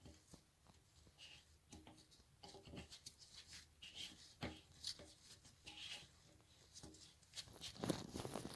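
Faint, scattered clicks and rubbing, like small objects being handled, with a louder stretch of scraping near the end.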